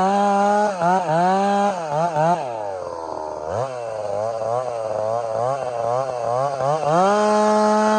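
Gas chainsaw with a 32-inch bar running at high revs, the engine note dipping several times, then falling to a low, near-idle note about 2.5 s in. It wavers at part throttle before revving back up to full speed about 7 s in.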